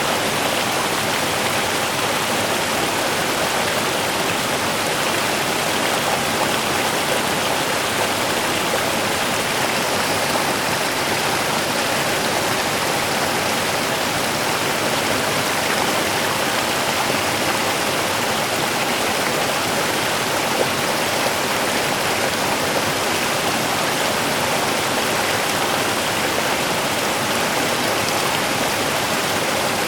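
A small river running: a steady rush and babble of flowing water that stays even throughout.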